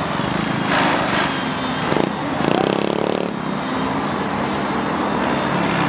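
Align T-Rex 700E electric RC helicopter in flight: a steady rush of the main rotor blades with a high electric-motor whine that wavers slightly.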